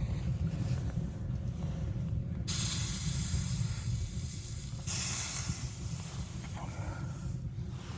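A steady low rumble, with a loud hiss that sets in about two and a half seconds in and runs for about five seconds, dipping briefly near the middle.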